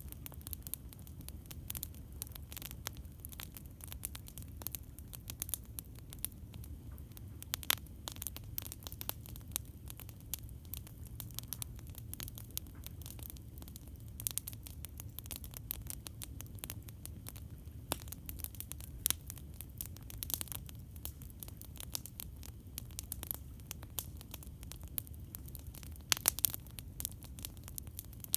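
Campfire burning with a steady low rumble and frequent irregular crackles and pops of burning wood, a few sharper pops standing out.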